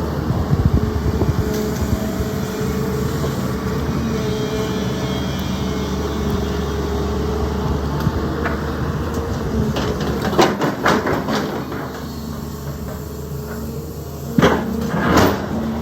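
Sany excavator's diesel engine running steadily under work, with a cluster of clanks and knocks about two-thirds of the way in and again near the end as the machine handles stones.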